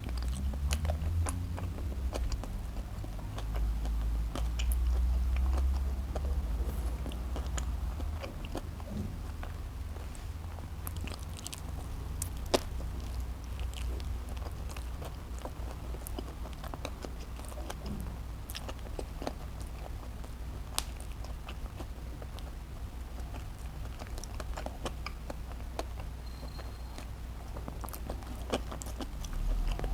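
Close-miked chewing of a cheeseburger, with wet mouth clicks and smacks scattered throughout over a steady low hum.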